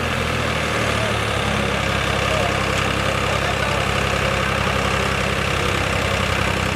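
New Holland 3630 tractor's diesel engine idling, settling to a steady idle about a second in.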